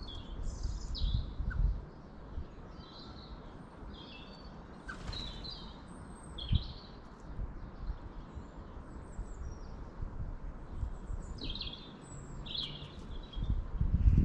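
Small birds chirping, many short high calls one after another, over a low rumbling noise that grows louder near the end.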